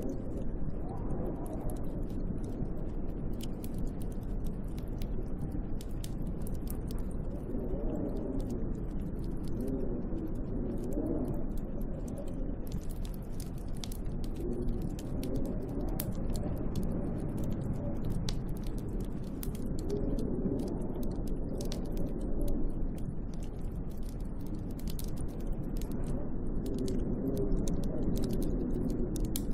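Snowstorm wind blowing around a hut: a low, rushing noise that swells and eases every few seconds, with faint scattered ticks.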